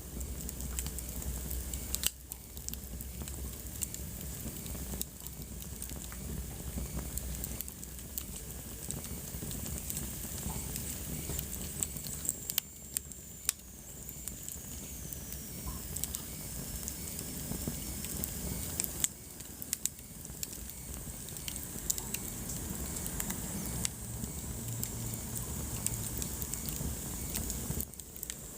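Wood fire in a fireplace crackling, with irregular sharp pops and snaps over a steady hiss of burning.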